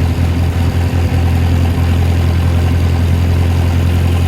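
Ford 620 tractor's four-cylinder engine running at a steady speed, driving the hydraulic pump while the Sherman forklift mast is slowly raised with cold hydraulic oil.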